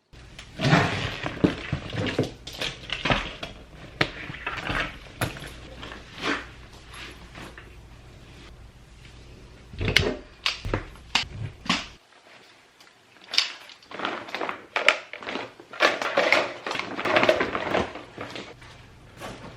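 Irregular knocks, thunks and rustling of objects being handled, over a low steady hum that stops suddenly about twelve seconds in.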